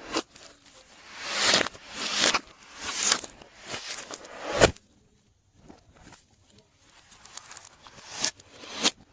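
Glossy slime being worked by hand, squished and pulled with wet, sticky crackling in repeated swells, with a short quiet pause about halfway through.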